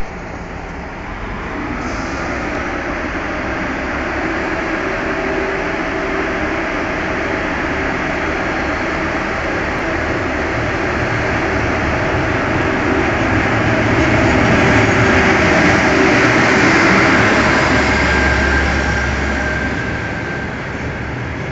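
Macedonian Railways 712-series train pulling slowly into the platform and passing close by with a steady running rumble. It grows louder to a peak about fifteen to seventeen seconds in, then eases as the carriages go past.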